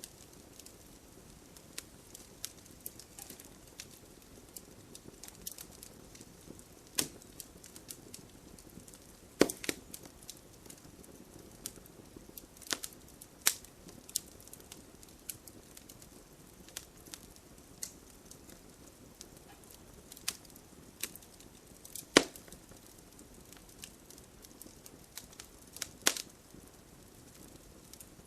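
Wood campfire burning, with irregular sharp pops and crackles over a low steady hiss; a few pops stand out louder than the rest.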